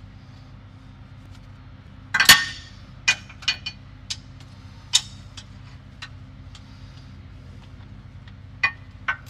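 Metal hand tools and parts clinking and knocking while they are handled: one louder clank a couple of seconds in, then a scatter of sharp clicks, over a steady low hum.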